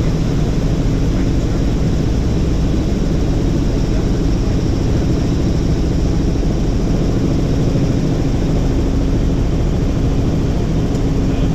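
Helicopter in flight: a loud, steady drone of rotor and engine with a constant low hum, unchanging throughout.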